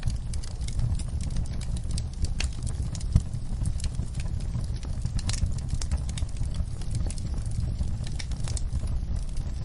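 Wood fire in a fireplace crackling and popping over a low rumble of flames, with one louder pop about three seconds in.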